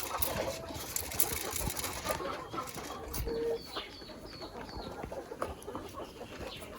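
Chickens clucking, with a run of four short high chirps about halfway through.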